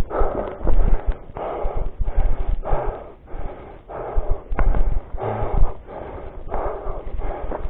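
Heavy, rhythmic breathing close to the microphone, in repeated noisy puffs about one or two a second, with dull thumps underneath.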